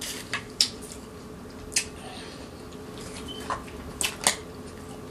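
Eating sounds: about six short, sharp clicks and taps, spaced irregularly, over a faint steady hum.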